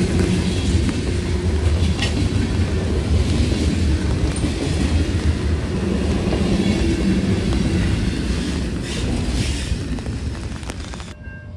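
Freight train rolling past: a steady, loud rumble of railcars on the track with occasional clicks of wheels over rail joints. It cuts off suddenly near the end.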